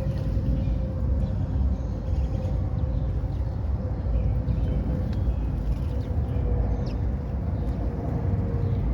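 City park ambience: a steady low rumble of distant traffic with a faint steady hum, and short bird chirps now and then.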